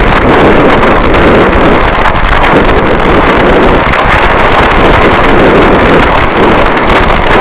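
Harsh noise wall: a loud, unbroken wall of distorted static that fills the whole range from deep rumble to hiss, with no beats, strikes or pauses.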